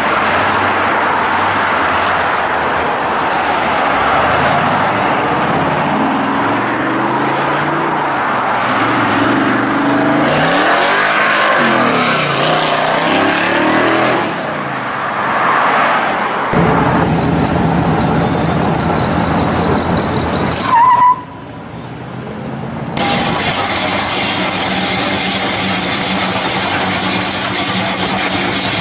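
Classic muscle-car V8 engines: a Chevelle SS revving up and down with rising and falling pitch as it pulls away. After abrupt cuts, other classic cars' engines run as they drive off.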